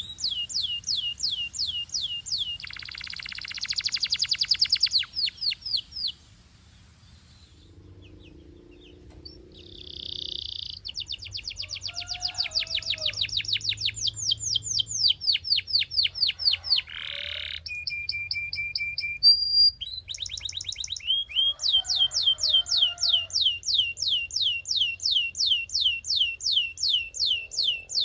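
Belgian canary singing: fast trills of repeated sweeping notes strung into phrases. A short lull comes about a quarter of the way in, and a steady held whistle about two-thirds through.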